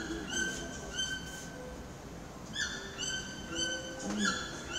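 A bird calling: short, clear notes on one steady pitch, repeated about twice a second in runs, with a pause of about a second and a half in the middle. The uploader takes it for a toucan.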